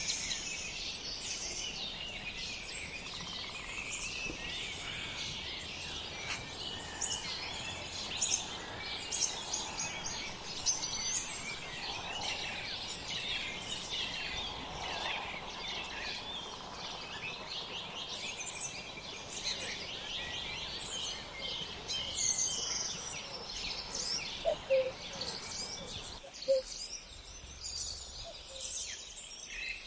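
Many small birds chirping and singing at once, a dense chorus of quick, high notes over a steady outdoor background hiss. The hiss drops away near the end, leaving the chirps and a few lower notes.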